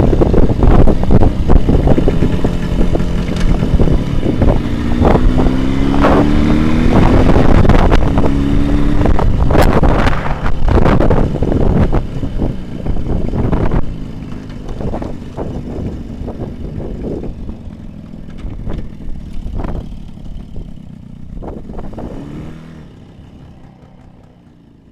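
Jawa 638 two-stroke twin motorcycle running on the move, with buffeting and knocks over the engine. The engine note rises as it revs up a few seconds in, then the sound grows quieter from about halfway and fades away near the end.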